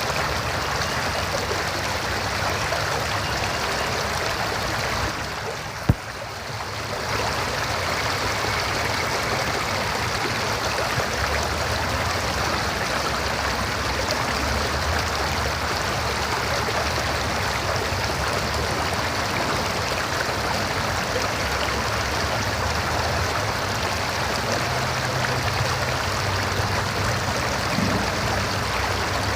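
River water flowing, a steady rushing stream sound. About six seconds in the sound briefly dips, with one sharp click.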